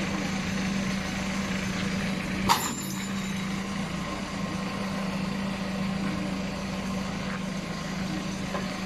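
Diesel engine of heavy machinery running steadily at idle, with one sharp clank about two and a half seconds in.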